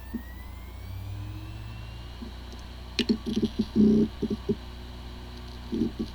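WD Green 3.5-inch SATA hard drive spinning up with a steady hum and a whine that rises in pitch over the first two seconds. About three seconds in, and again near the end, come short clusters of ticks and buzzes from the heads seeking. It sounds like a healthy drive, though this one has corrupted disk firmware and the computer cannot detect it.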